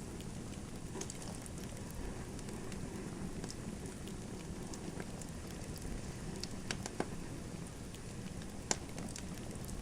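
Wood fire crackling in a fireplace: a steady low rush of burning with scattered sharp pops and snaps, a few louder single pops in the second half.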